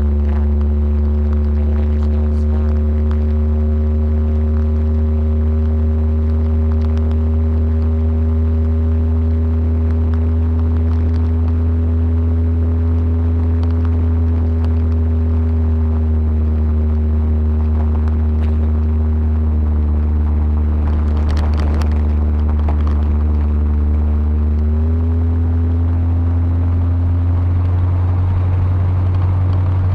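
1977 Ford Ranchero GT's 351 Windsor V8, with a freshly rebuilt carburetor, running under way on a test drive: a steady low drone that steps up slightly in pitch about 25 seconds in.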